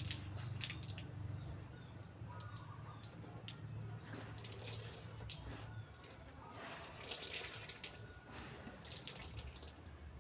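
Water dripping and splashing in short irregular spells, over a low hum that stops about six seconds in.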